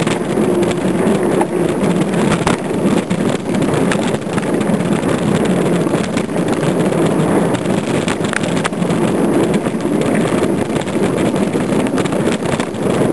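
Wind rushing over the microphone of a camera on a mountain bike riding a dirt trail, with scattered rattles and knocks from the bike over bumps.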